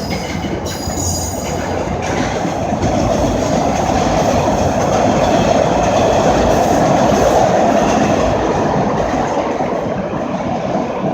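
A train passing on the tracks: the rumble and rattle of wheels on rails builds to a peak about halfway through, then fades.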